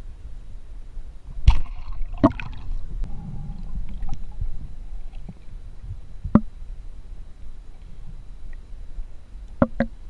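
Water movement during a spearfishing dive: a steady low rumble broken by sharp knocks, one about a second and a half in, another near two seconds, one past six seconds and a quick double knock near the end.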